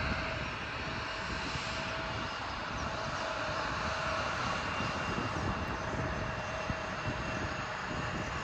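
Aircraft engine running steadily: an even rushing noise with a faint steady whine in it, one lower tone fading out about five seconds in.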